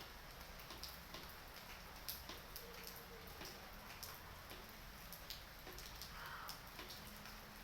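Light rain: scattered raindrops ticking irregularly, a few a second, over a faint hiss.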